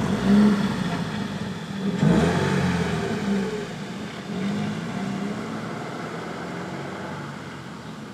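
Toyota GR86's 2.4-litre flat-four boxer engine and exhaust as the car pulls away and accelerates, with a louder swell of revs about two seconds in. The sound then fades steadily as the car drives off.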